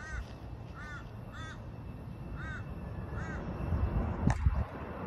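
A bird calls five times in the first three and a half seconds, short calls each rising and falling in pitch, over a steady low rumble. A single sharp knock comes near the end.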